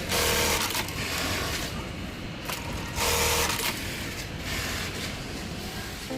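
Brother 430D industrial electronic sewing machine running its sewing cycle, a steady mechanical clatter with two louder bursts of about half a second, one at the start and one about three seconds in.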